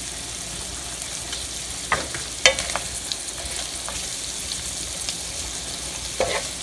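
Shrimp sizzling in melted butter in a frying pan. A wooden utensil knocks and scrapes against the pan a few times as they are stirred, loudest about two and a half seconds in.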